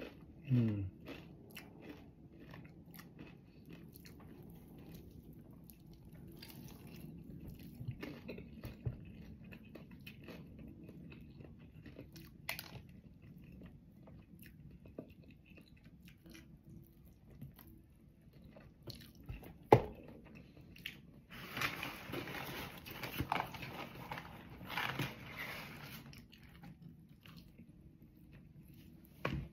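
Close-up chewing and crunching of crispy fried chicken skin, with many small crackles and mouth sounds. A louder spell of crunching runs for several seconds about two-thirds of the way through. A single sharp knock, the loudest sound, comes just before it.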